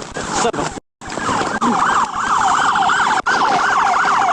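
Police car siren in fast yelp mode, sweeping up and down about three times a second, starting about a second in after the sound cuts out briefly.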